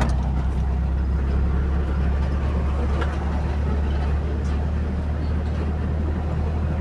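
Motor vehicle engine and road noise: a steady, even low drone with no change in pitch.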